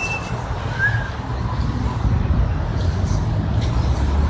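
Steady low rumble of vehicles in a city, with a brief faint chirp about a second in.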